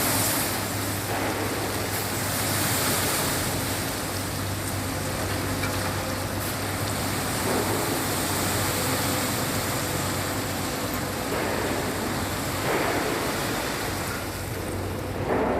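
Hyundai four-axle dump truck's diesel engine running with a steady low hum under a constant rushing noise.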